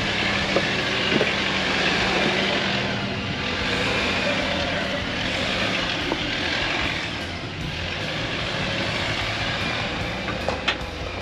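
Off-road 4x4 engine running under load as it climbs a steep rocky section, with a rushing hiss that swells and fades. A few sharp knocks come near the end.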